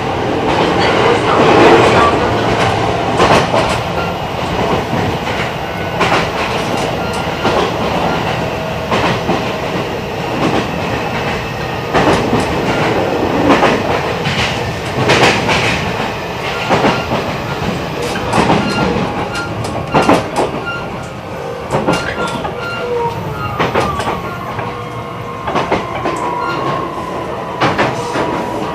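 Running sound of an E129 series electric train heard from on board: steady rolling noise with irregular clacks of the wheels over rail joints. A thin steady tone sets in about two-thirds of the way through.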